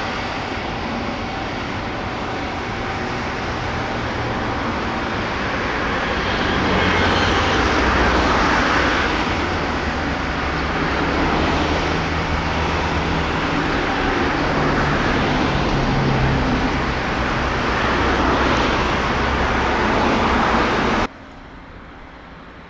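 Road traffic noise: vehicles passing, the sound swelling and fading every few seconds with a low engine hum. It cuts off suddenly near the end.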